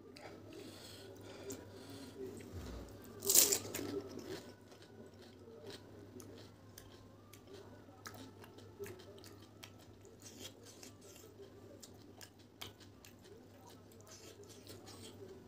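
Close-up mouth sounds of a person chewing crunchy panipuri (fried puri shells), with scattered crunches and clicks and one louder burst about three seconds in. A low steady hum runs underneath.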